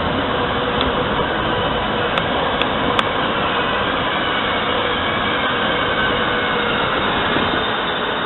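A train running past, a steady rolling noise with faint whining tones and a few light clicks.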